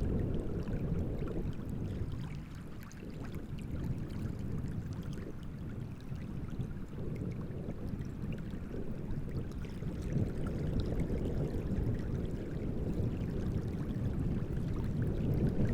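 Wind and small waves lapping and splashing at the shore of a large reservoir: a steady low rumble with faint splashes, growing louder near the end.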